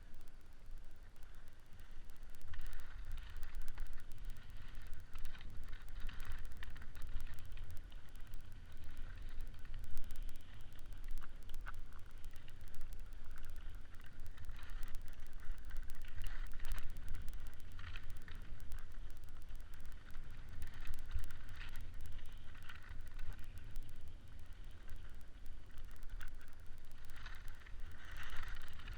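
Wind rumbling on the microphone, with an uneven hiss that swells and fades as a kite rider slides across the lake surface.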